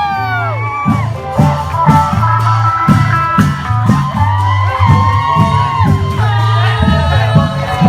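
Loud live band music with a regular drum beat and steady bass, under a melody of long sliding notes, with shouts and whoops from a crowd.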